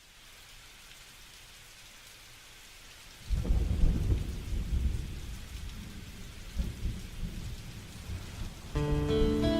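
Steady rain hiss, then about three seconds in a loud clap of thunder that rumbles and rolls away over several seconds. Near the end a guitar comes in.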